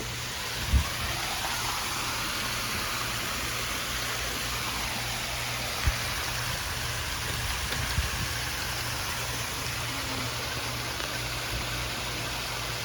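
Hampton Bay Gazebo II ceiling fan running with a steady low hum under a steady rush of air noise; the fan has a bad capacitor, which leaves high speed slower than medium. A rushing sound swells and fades in the first few seconds, and three short low thumps come through.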